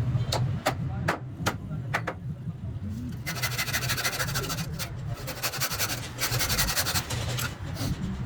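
A hand tool working wood: a few sharp taps in the first two seconds, then two long scraping strokes, each lasting over a second.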